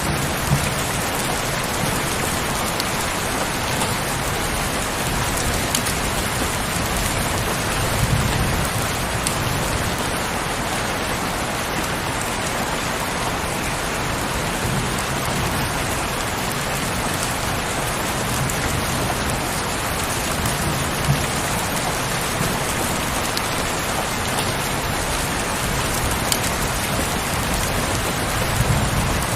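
Heavy rain falling steadily on a window, with scattered separate drop ticks and a few brief low rumbles.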